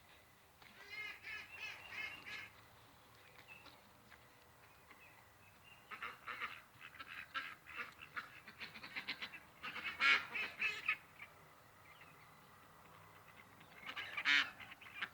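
Domestic geese honking in about four bouts of short, repeated calls, with quieter gaps between.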